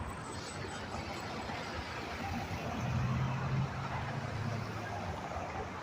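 A heavy truck's diesel engine drones past over steady road and tyre noise. The engine is loudest about three seconds in and fades again before the end.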